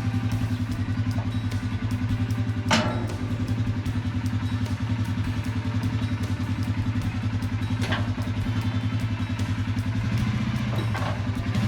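ATV engine idling steadily, with three metallic clunks: a loud one a few seconds in, one past the middle and a fainter one near the end.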